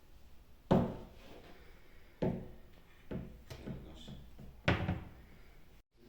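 A series of dull knocks and thuds: a loud one about a second in, another a second and a half later, a few lighter knocks after that, and a loud double knock near the end.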